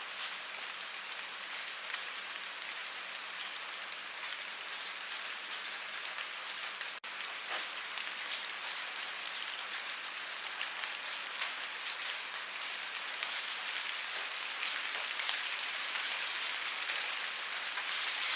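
Steady rain falling: an even hiss with scattered drop ticks. It cuts out for an instant about seven seconds in.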